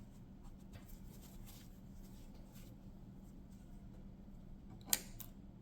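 Faint scratchy rustling of yarn as a crocheted piece and its cut tail are handled and tucked through, with a sharp click about five seconds in and a softer one just after.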